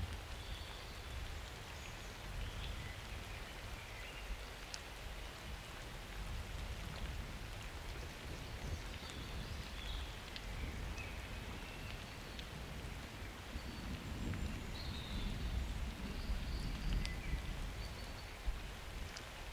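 Steady rain falling during a summer thunderstorm. A low rumble runs underneath and swells about two-thirds of the way through, with a few short high chirps and drip clicks scattered over the rain.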